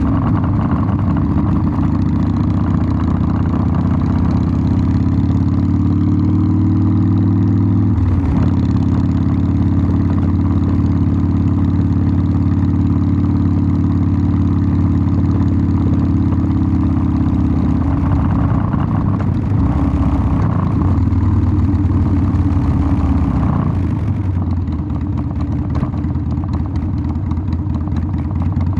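Harley-Davidson Sportster 1200's air-cooled 45-degree V-twin running through its exhaust at a steady engine speed, with a brief change in the note about eight seconds in. The pitch wavers for a few seconds in the middle, and the engine is a little quieter near the end.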